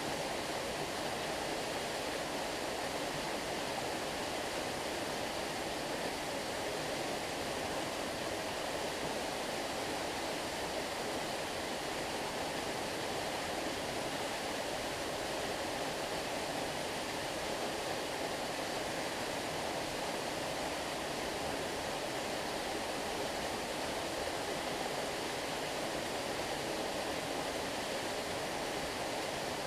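Stream water flowing steadily, an even rushing noise with no breaks or changes.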